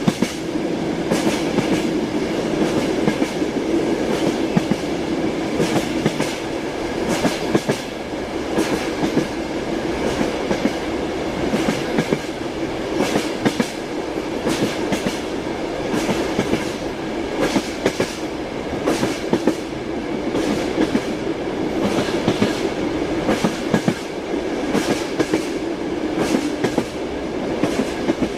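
Passenger train heard from inside a compartment, running steadily: a continuous rumbling hum with the wheels clacking over the rail joints again and again.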